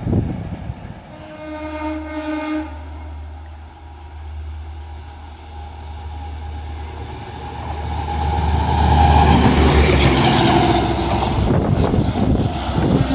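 Indian Railways train sounding one short horn blast, then approaching and running past close by, its noise growing loud over the last few seconds.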